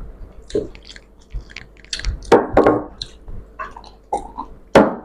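Close-up chewing and wet mouth smacking and clicking from eating rice with fish curry, with a brief hummed vocal sound a little over two seconds in.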